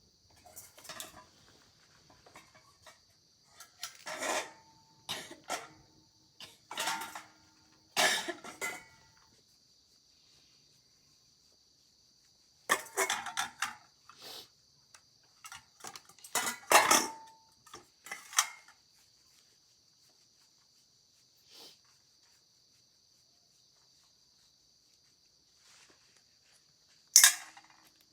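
Metal hand tools and bicycle parts clinking and clattering as they are handled in bicycle repair work. The clinks come in irregular bunches of quick strikes, some ringing briefly, over a steady high-pitched whine.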